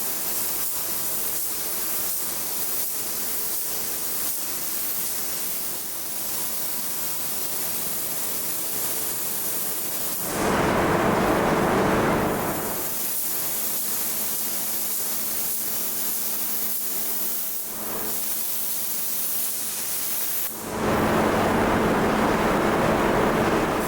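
Steady hiss of workshop machinery with a faint low hum, swelling twice into a louder, fuller rush of hiss, once about ten seconds in and again shortly before the end.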